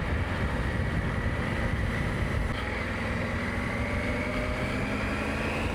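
Motorcycle engine running on the road, with wind rush on the microphone. A thin whine rises slowly in pitch over the last few seconds.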